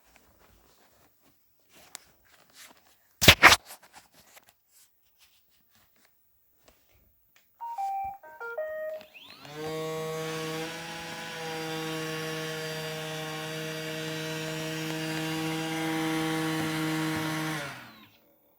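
iRobot Roomba 880 robot vacuum giving a short run of electronic beeps, then its motors spinning up and running at a steady hum for about eight seconds before stopping. A single loud knock comes about three seconds in.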